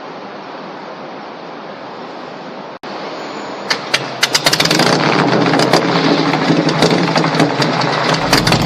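A steady rushing noise that cuts off sharply about three seconds in, followed by an engine starting: a run of sharp clicks, then the engine catches and runs, getting louder toward the end.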